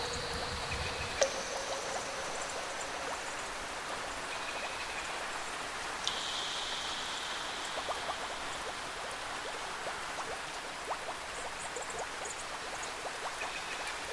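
Steady rain with scattered drips and light patter. A few faint, high held tones join it, one about a second in and another about six seconds in.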